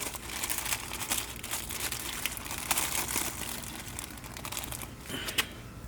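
Plastic packaging crinkling and rustling as a new fuel pump is unwrapped, a dense run of small crackles that eases off near the end.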